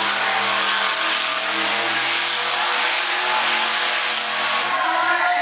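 Monster truck engine running loud and steady.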